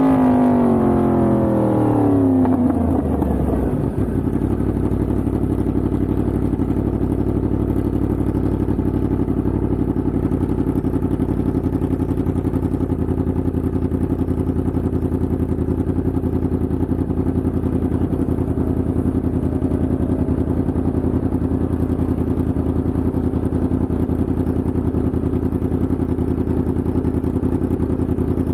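Yamaha MT-10's crossplane inline-four engine dropping in revs as the bike slows. It settles into a steady idle about four seconds in.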